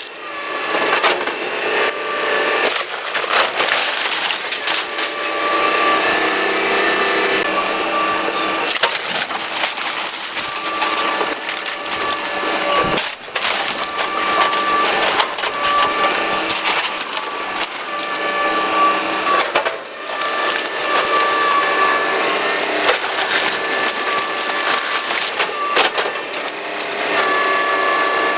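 A house being torn down by machinery: continuous crunching and splintering of timber and debris, with a steady machine whine running through it.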